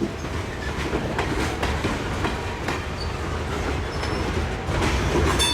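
Freight train hopper cars rolling past: a steady rumble with repeated clicks of wheels over the rail joints, and a brief high squeal near the end.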